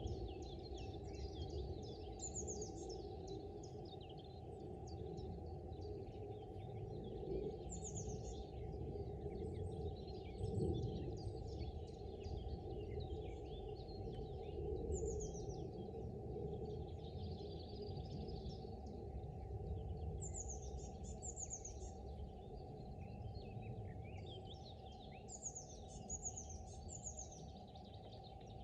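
Several small birds singing and chirping, with short runs of quick, high, falling chirps, over a steady low background rumble.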